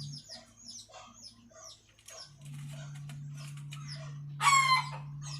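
Chickens calling: scattered soft clucks and chirps, then one loud short squawk about four and a half seconds in, over a steady low hum.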